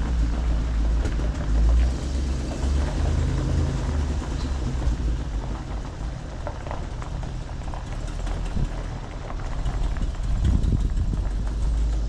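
Ford F700 truck engine running, with a steady low hum that is strongest in the first few seconds and eases off later.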